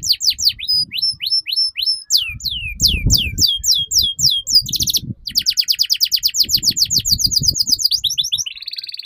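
Domestic canary singing a long, continuous song: series of rapid, repeated falling notes, about six to eight a second, switching between phrases, with a fast buzzy trill about five seconds in.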